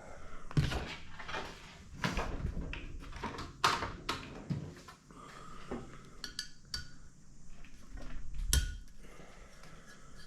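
Small metal carburettor parts and hand tools being handled during disassembly: a string of sharp clinks and knocks, the loudest about half a second, two, three and a half and eight and a half seconds in, with light scraping between.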